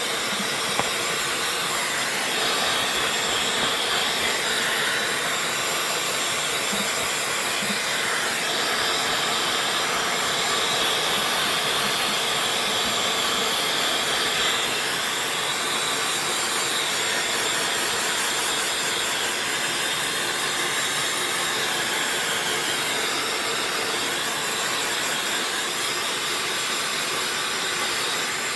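Dyson hair dryer running steadily: an even rushing hiss of blown air with a faint high whine.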